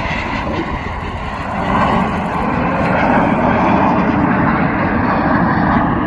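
Jet noise from the Snowbirds' CT-114 Tutor jets, each driven by a single J85 turbojet, passing in formation. The noise swells about a second and a half in, stays strong, and eases slightly near the end.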